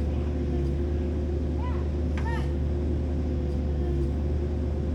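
Vehicle engine running steadily, a low even drone with a faint steady whine. A couple of short high chirps come about two seconds in.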